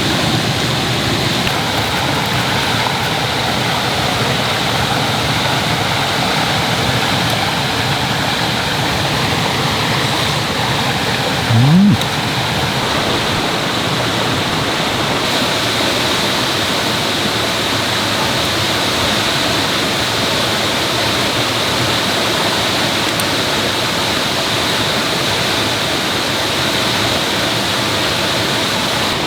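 Mountain stream rushing steadily over rocks. About halfway through, a brief low sound rises in pitch and is louder than the water for under a second.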